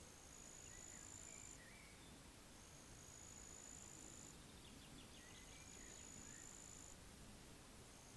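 Faint, high-pitched insect trill, heard as steady buzzes of about two seconds that repeat every two and a half seconds, four times over. A few soft bird chirps and a brief rattle come in between.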